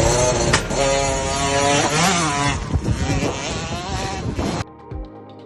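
Youth motocross bike engines revving hard, the pitch climbing and dropping as the riders work the throttle. About four and a half seconds in, the engine noise cuts off suddenly and quiet background music follows.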